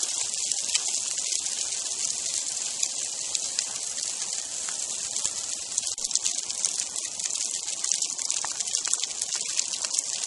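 Heavy sleet (ice pellets) falling and striking snow and hard surfaces: a steady high hiss made up of countless tiny ticks.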